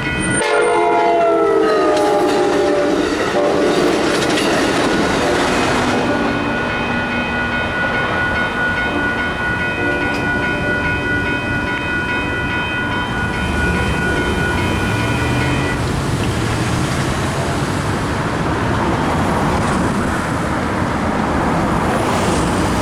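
Amtrak passenger train passing over a grade crossing: its horn sounds and drops in pitch as it goes by during the first few seconds, then the cars roll past with clickety-clack of the wheels. Throughout, the crossing's electronic bell rings steadily, stopping about sixteen seconds in, after which road traffic is heard.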